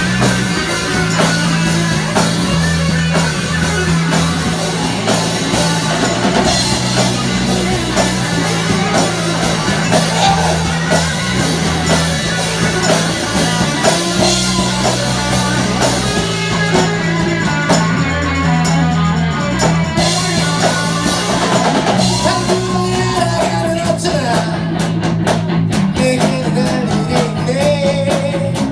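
Rock band playing live: electric guitar, bass and drum kit, with singing. For a few seconds past the middle the cymbals drop out, then the full kit comes back.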